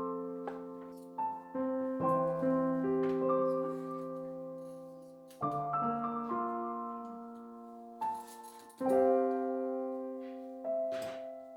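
Soft piano background music: slow chords struck and left to ring and fade, with a new chord every few seconds. A few light clicks sound about eight and eleven seconds in.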